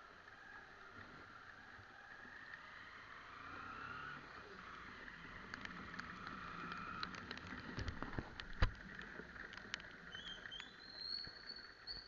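Motorcycle riding in the rain: engine running and tyres hissing on the wet road, with a few sharp knocks about eight seconds in and a high squeal near the end.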